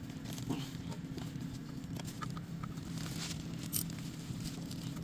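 Light, scattered clicks and taps of metal parts and tools being handled, over a steady low hum.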